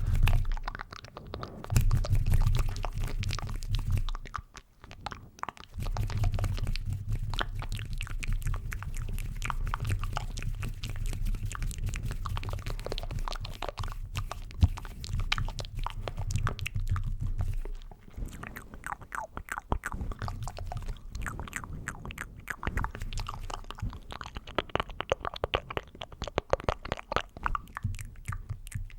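Close-miked ASMR mouth sounds: rapid wet clicks and smacks, dense and irregular, with a low rumble underneath that stops about two-thirds of the way through.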